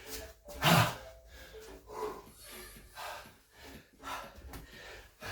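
A man breathing hard and gasping between exertions while doing Navy SEAL burpees, with a louder burst less than a second in.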